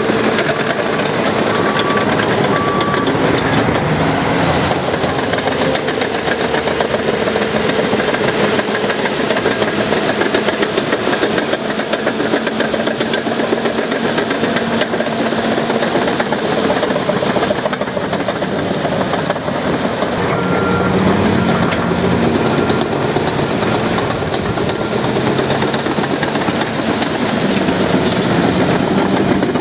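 Heavy construction machinery working: diesel engines running steadily under a dense mechanical clatter, the engine note shifting a little now and then.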